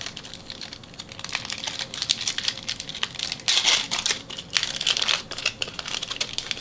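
Crinkling of a trading-card pack wrapper being handled and opened, in irregular rustles and crackles.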